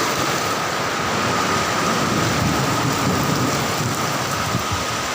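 Steady heavy rain falling, an even hiss with a faint high steady tone running under it.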